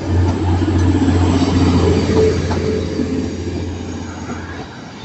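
A Class 185 diesel multiple unit pulling out, its diesel engines giving a steady low drone that fades as it moves away and drops out near the end.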